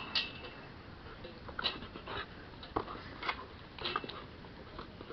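Dogs playing tetherball: irregular short taps and scuffs as they jump at and bat the ball.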